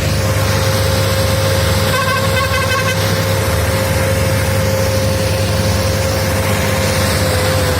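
Preet 6049 tractor's diesel engine running steadily, with a steady whine over it. About two seconds in, a horn sounds for about a second in quick pulses.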